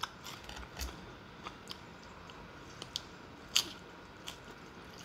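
A person chewing a mouthful of spinach salad close to the microphone, with scattered sharp clicks and crunches. The loudest of these comes a little past halfway.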